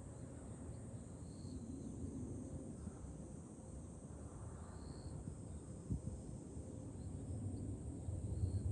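Summer cicadas singing in a steady high chorus, with wind rumbling on the microphone. A few brief faint high notes come and go, and a single soft thump sounds about six seconds in.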